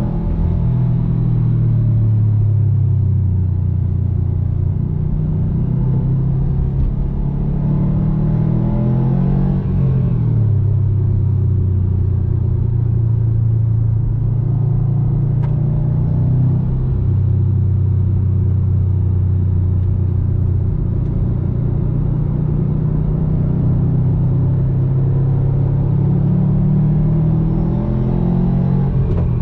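2019 Subaru WRX STI's turbocharged flat-four engine running through an Invidia N1 exhaust while driving. The engine note rises at first, falls off about ten seconds in, holds steady through the middle, then climbs again near the end.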